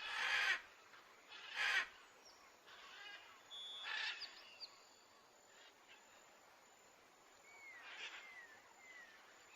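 Faint outdoor birdsong: short thin whistled notes sliding down in pitch, several near the end, over a quiet background with a few brief soft hissing bursts.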